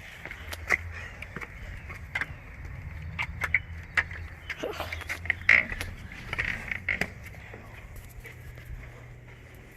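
Footsteps and small knocks and clicks of someone walking, over a steady low hum that shifts slightly in pitch about eight seconds in.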